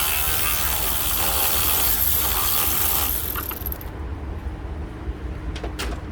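Power wrench running to undo a fastener on the radiator fan assembly: a loud, continuous hiss-and-whine that stops about four seconds in. A short click follows near the end.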